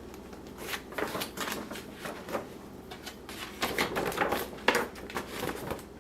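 Paper rustling and crinkling in irregular bursts as an instruction pamphlet is handled, with a short pause about halfway.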